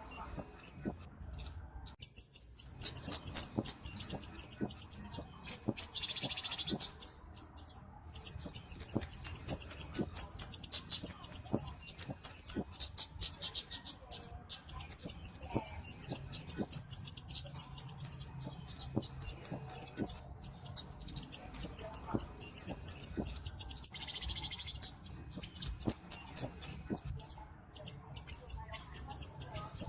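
Flowerpecker (cabe-cabean) song: fast runs of very high, thin ticking notes in bouts of two to six seconds, broken by short pauses.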